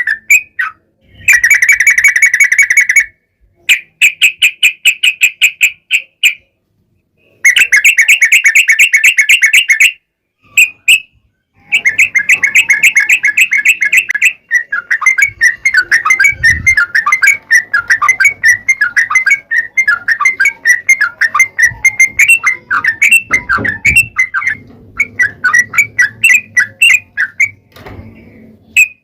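Yellow-vented bulbul (trucukan) singing: four bursts of rapid, even trilled chatter (the long 'ropel'), then a long run of quick varied chirps.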